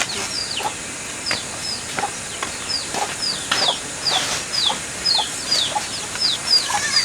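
Chickens peeping and clucking: a steady run of short, high peeps that fall in pitch, a few each second.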